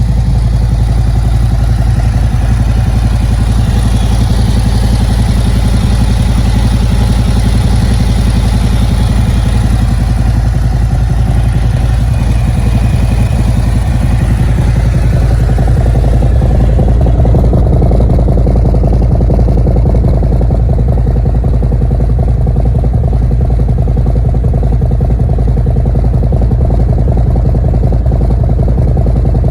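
Harley-Davidson Road Glide's Milwaukee-Eight 114 V-twin idling steadily after a cold start, through a Khrome Werks full exhaust system, with torque cams fitted. The tone shifts slightly about halfway through.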